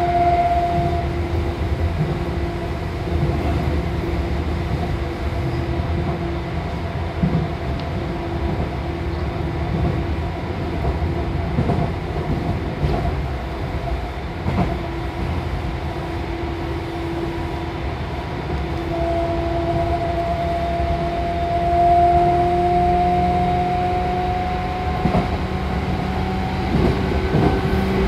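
Seibu 2000 series electric commuter train running: a steady rumble of wheels on rail under a motor and gear hum. The hum rises slowly in pitch about two-thirds of the way through as the train gains speed. Scattered clicks come through, more of them near the end.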